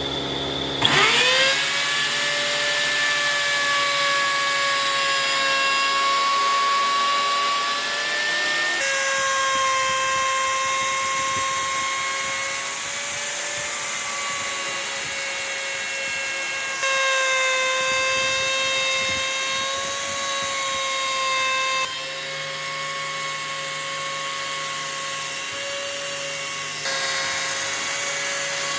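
An electric power tool's motor running with a steady high whine; it spins up to speed about a second in, and the sound changes abruptly several times.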